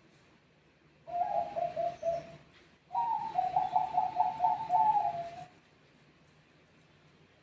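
Zebra dove (Bangkok perkutut) cooing: a short phrase about a second in, then a longer phrase of quick repeated notes ending about five and a half seconds in.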